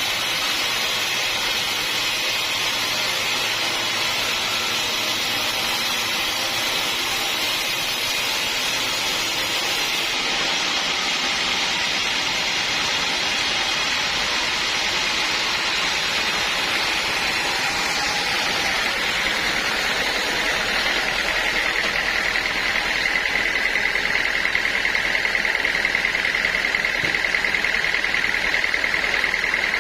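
A sawmill saw running and cutting through a log: a steady, dense mechanical noise. From about twenty seconds in, a high, fast-pulsing whine rises and grows slightly louder.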